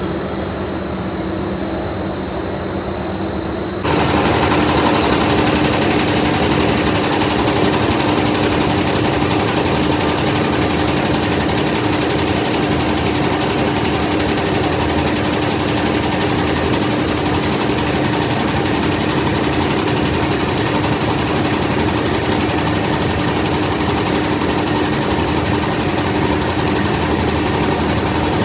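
Steady drone of factory machinery running. About four seconds in it jumps abruptly louder and fuller, with a steady hum held from then on.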